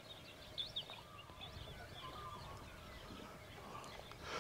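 Faint birdsong: many short, scattered chirps from several birds over a quiet background hiss.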